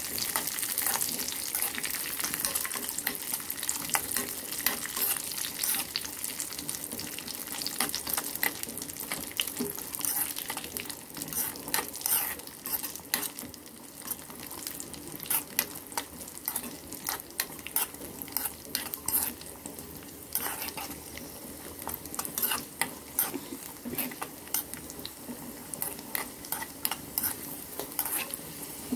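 Cashews and raisins sizzling as they fry in ghee in a pan, stirred with a metal spoon that scrapes and clicks against the pan again and again.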